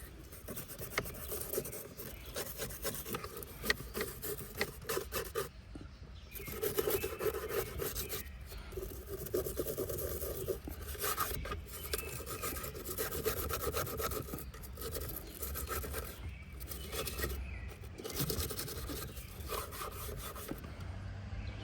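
A brush scrubbing a car's interior surfaces with quick back-and-forth strokes, making a continuous rasping, with brief pauses between bouts.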